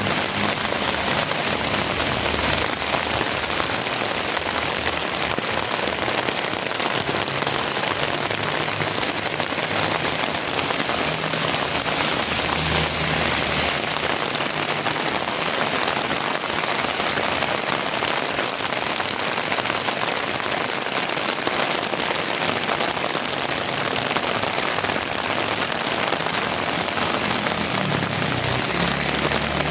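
Heavy rain falling steadily and hitting the ground and other surfaces, a dense even hiss with a low rumble that comes and goes underneath.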